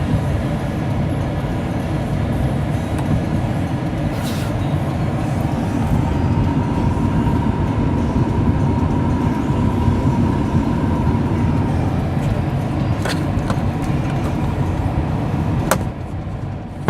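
Steady rumbling noise inside the cab of a running Ford F-150 pickup with its windshield wipers on low speed, broken by a few sharp clicks.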